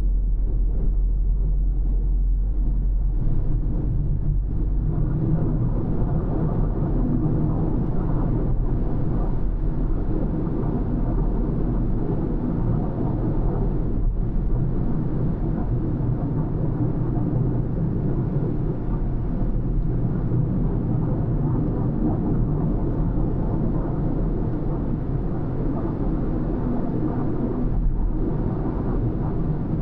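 A car driving along a road: a steady low rumble of road and engine noise with tyre hiss.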